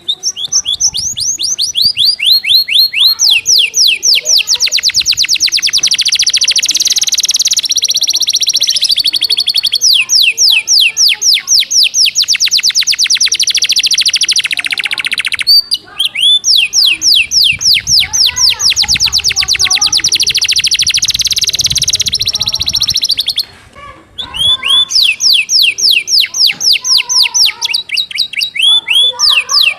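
Domestic canary singing a fast, dense song of long trills, each made of rapidly repeated, high, downward-sweeping notes, in the style of a canary tutored on gelatik batu (cinereous tit) phrases. The song breaks briefly about halfway through and pauses for about a second at around two-thirds, then resumes.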